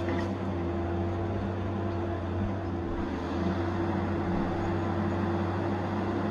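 Tigercat 870C feller buncher's diesel engine running steadily, a constant low drone with a steady higher hum over it.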